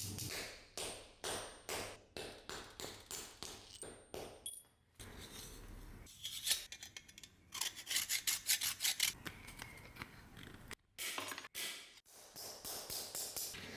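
Hand-tool work: a series of short scraping or cutting strokes, about two a second, then a faster, louder run of strokes, broken off by abrupt cuts near the end.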